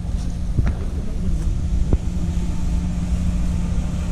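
Steady low hum of a Ford Crown Victoria Police Interceptor's 4.6-litre V8 idling, with a few faint ticks in the first two seconds.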